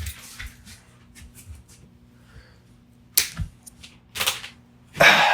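A few sharp clicks and clacks from USB cables and plugs being handled, with a louder scraping rustle about five seconds in.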